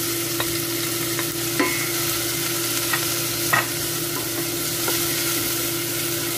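Chopped spring onion and grated ginger sizzling in hot oil in a stainless steel saucepan, stirred with a wooden spoon that knocks against the pan several times. A steady hum runs underneath.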